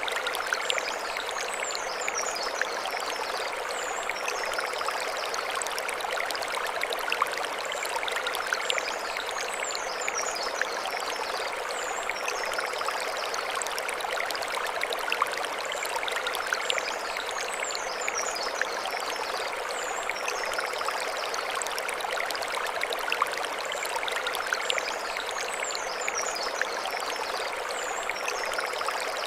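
Mountain stream flowing over stones: a steady, even rush of water. High chirping glides recur about every eight seconds above it.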